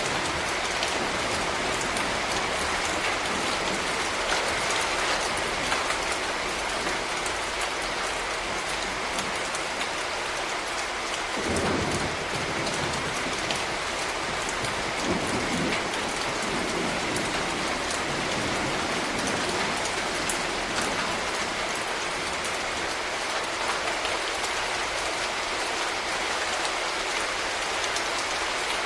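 Steady rain falling on hard surfaces, with scattered individual drop taps. Two brief low rumbles rise out of it near the middle.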